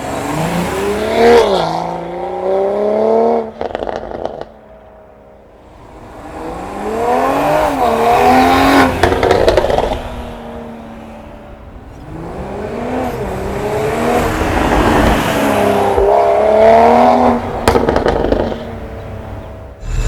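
BMW M340i's turbocharged B58 inline-six, through an aftermarket downpipe and valved catback exhaust, revving up under hard acceleration three times. The pitch climbs and drops sharply at the gear changes, with brief crackles as the throttle is lifted.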